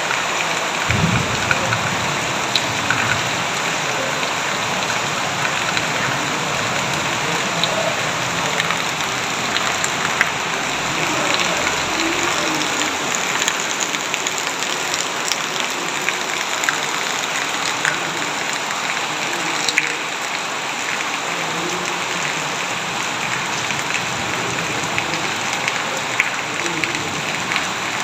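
Heavy rain falling steadily, with many sharp drop ticks scattered through it and a brief low rumble about a second in.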